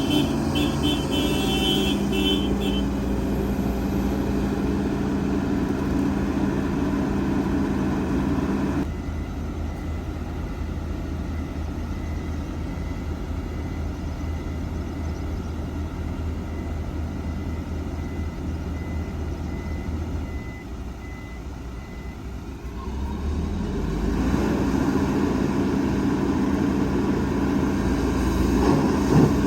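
Heavy diesel engines of construction machinery (excavator and dump trucks) running, with a high pulsing beep in the first few seconds. About nine seconds in the sound drops abruptly to a quieter low rumble, then grows back to full engine level after about 23 seconds.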